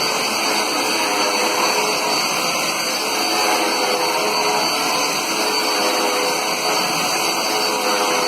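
Dirt Devil Endura Reach bagless upright vacuum cleaner running steadily: a loud, even rush of air with a constant high whine from the motor.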